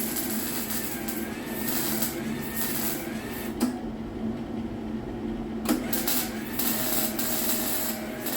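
Welding arc crackling on car body panel metal. It stops for about two seconds midway, with a click at each end of the pause, then strikes up again.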